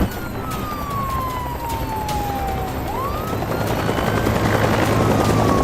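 Police car siren wailing. Its tone slides slowly down, sweeps back up about three seconds in, and starts falling again near the end, over a steady low rumble.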